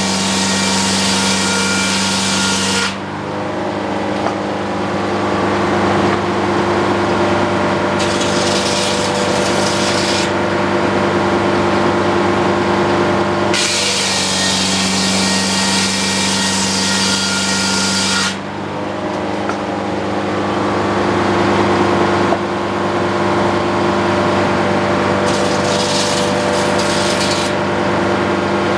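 Antique circular sawmill running steadily, its blade sawing through a wooden utility pole in two cuts: a loud sawing hiss that ends abruptly about three seconds in, then a second cut of about five seconds from around thirteen seconds, with the mill and spinning blade humming between cuts.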